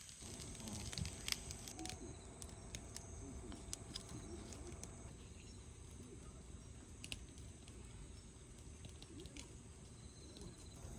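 Faint insects chirring: a steady high buzz, with a few scattered small clicks.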